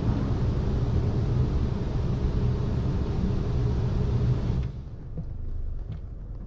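Touchless car wash machinery running, heard from inside the car: a steady, loud rushing noise with a deep rumble that cuts off suddenly partway through, leaving a quieter hum.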